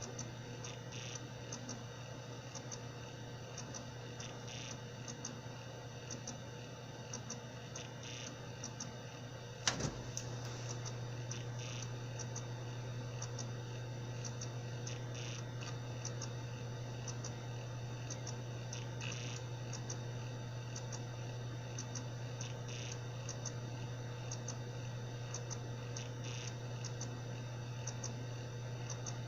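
Seagate Barracuda 7200.7 80 GB hard drive running with a steady hum and irregular clicking and ticking. One sharper click comes about ten seconds in, after which the hum is a little louder. This is the drive's bad sound, a sign that the drive is faulty.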